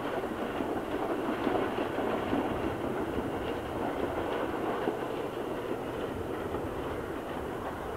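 Freight train of covered vans rolling along the track, with a steady running noise of wheels on rails.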